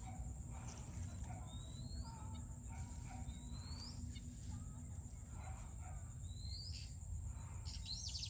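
A bird calling four times with a short whistled note that rises in pitch, spaced a second or more apart. Behind it run a steady high-pitched whine and a low rumble.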